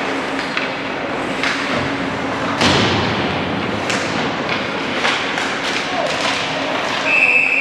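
Basketball game in a gym: a ball bounces and thuds on the hardwood amid scattered impacts, with the loudest bang about two and a half seconds in. A steady, high whistle blast, typical of a referee's whistle, starts near the end.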